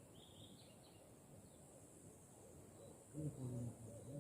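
Faint, high bird chirps in the first second over a quiet forest background, then a short, low vocal sound about three seconds in.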